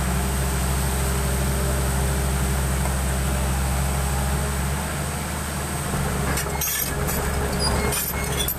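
Excavator's diesel engine running steadily; the note shifts a little about halfway through, and short knocks and rattles join in near the end.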